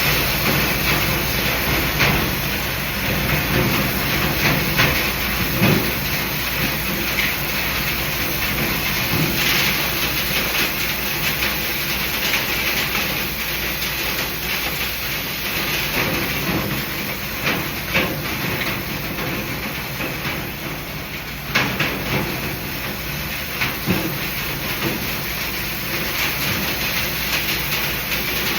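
Air duct cleaning equipment running: a loud, steady rushing hiss of moving air, with irregular knocks and rattles against the ductwork.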